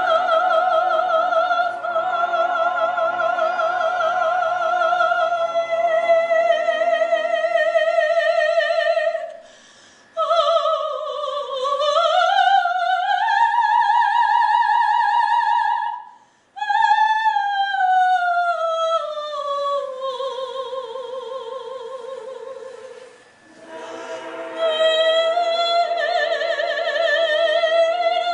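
Operatic solo singing: a high voice holding long notes with wide vibrato and sliding between pitches, with three short pauses for breath.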